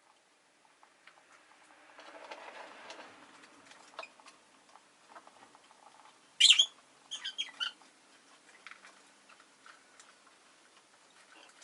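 Rosy-faced lovebird giving one sharp, high chirp about six seconds in, followed at once by a quick run of smaller chirps. Faint scattered clicks and a soft rushing noise about two seconds in lie underneath.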